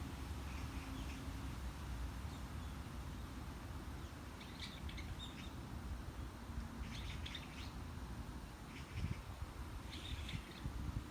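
Wind blowing with a steady low rumble, and small birds chirping in short spells from about four seconds in.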